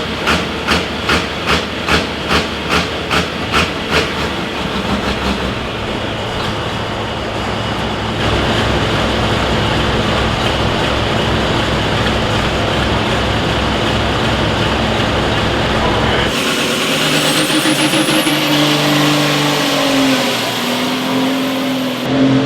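Pulling-vehicle engine running loud, opening with sharp pops about three times a second and then settling into a steady heavy run. About sixteen seconds in it gives way to another engine with a low pitched note and a high whine that rises and then holds steady.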